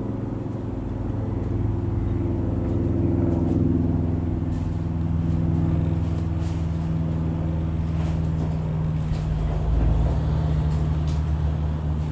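Robin HR200/160 light aircraft's single piston engine and propeller droning steadily as it flies over, swelling slightly a few seconds in.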